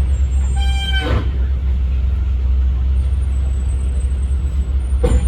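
Safari truck driving on a rough track: a steady, loud low rumble of engine and road. About a second in there is a brief high-pitched squeal, and near the end a short knock.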